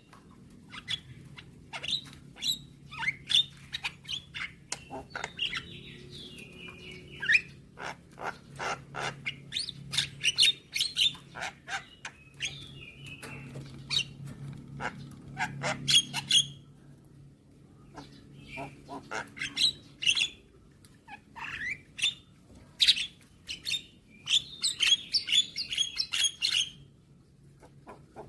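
Javan myna (jalak kebo) calling: rapid sharp clicking and chattering notes mixed with short whistled glides, in bursts with brief pauses and a quick dense run near the end. A steady low hum lies underneath.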